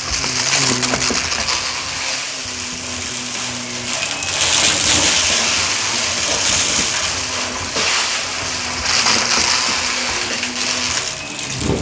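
Shark vacuum running on carpet in quick strokes, its airflow hiss swelling with each pass every few seconds, while loose debris crackles and clinks as it is sucked up.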